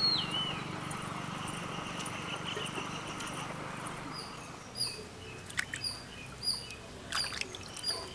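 Birds chirping outdoors over a faint steady background, with short high chirps repeating about twice a second from around halfway through. A few sharp clicks come near the end.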